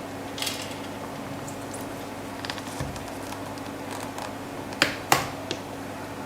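Scattered light taps and clicks of small hard objects being handled, with two sharper clicks close together about five seconds in, over a steady low electrical hum.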